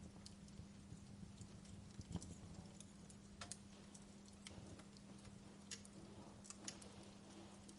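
Wood fire burning in a fireplace, faint: irregular pops and snaps of the burning wood over a low, steady hum.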